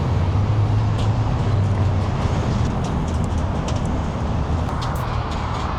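A car engine running with a steady deep, low rumble that eases off slightly toward the end.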